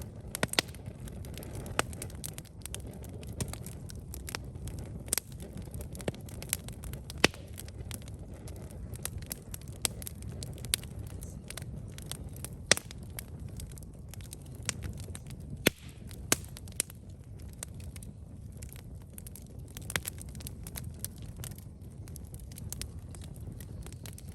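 Wood campfire crackling: irregular sharp snaps and pops, a few of them much louder, over a steady low rumble of the burning fire.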